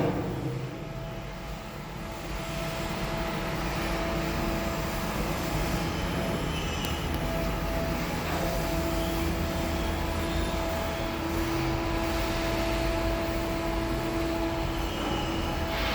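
Steady mechanical drone with a humming tone that drops out and returns several times.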